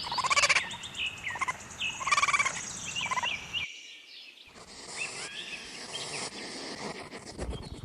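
Raccoon calls: short, high, pitched calls repeated in quick succession. A little past halfway the sound cuts to another recording with a hissy background and fainter calls.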